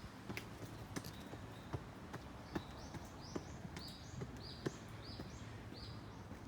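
Footsteps on pavement at a walking pace, sharp steps about every two-thirds of a second. A small bird calls a run of short, high chirps repeated about twice a second from a third of the way in until near the end.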